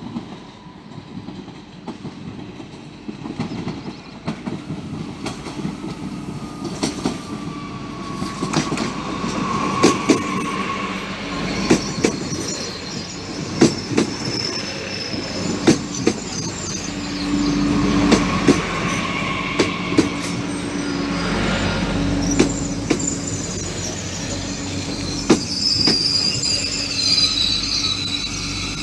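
TER regional train pulling into the platform and running slowly past: its wheels clack over a rail joint about every two seconds over a steady rumble. A high-pitched wheel and brake squeal comes in near the end as it slows to a stop.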